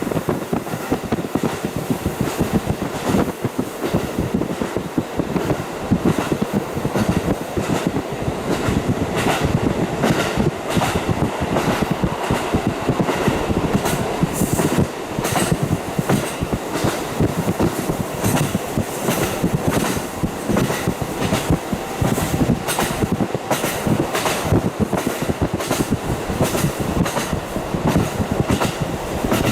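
KiHa 40 series diesel railcar running at speed, heard from inside with the windows fully open: a steady rolling rumble and a constant clatter of the wheels over the rail joints.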